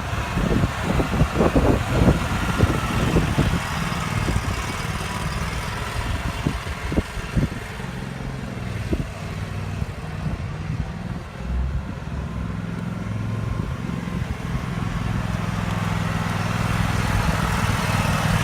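Kubota ZG222 zero-turn mower's engine running, with a few short knocks in the first seconds, then running steadily from about eight seconds in.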